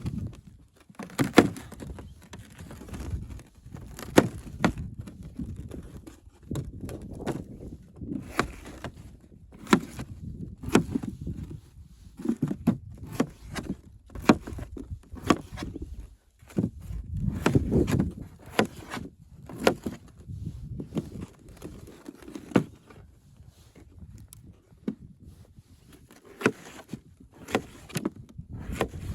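Irregular clicks, knocks and rustling, as of things being handled or someone moving about.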